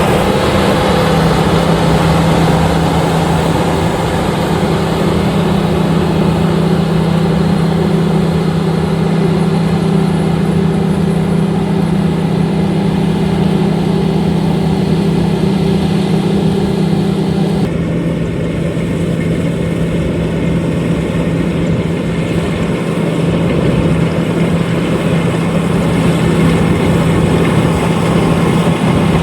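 LOVOL RG130EVO rice combine harvester running: a loud, steady engine and machinery drone with a strong low hum and a hiss above it. About eighteen seconds in the sound changes abruptly, one tone of the hum dropping out and the hiss thinning.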